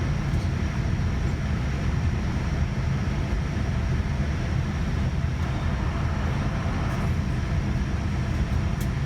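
Steady low rumble and hum inside the passenger cabin of a Boeing 787-9 airliner, with no rise or change in pitch. A faint short click comes near the end.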